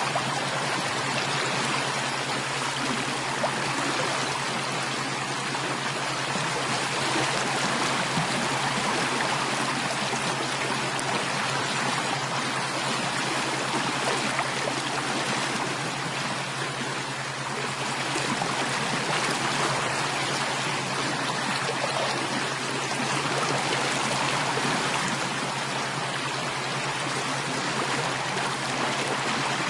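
Running water of a flowing stream, steady and unbroken.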